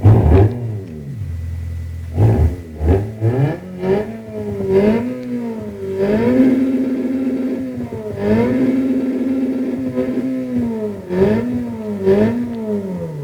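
Car engine revved from idle in a series of quick blips, each pitch rising and falling. Twice it is held flat at the same high pitch for about two seconds, running against the rev limiter, before dropping back.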